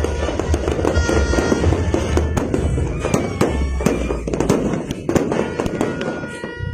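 Aerial fireworks going off in quick succession: a dense run of bangs and crackles over a low rumble, thinning out near the end.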